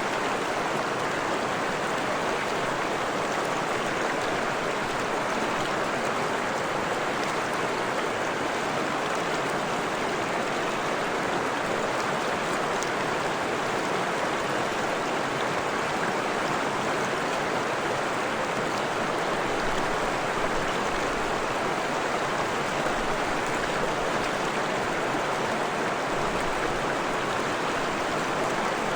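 Forest stream flowing, a steady rushing and babbling of water over rocks.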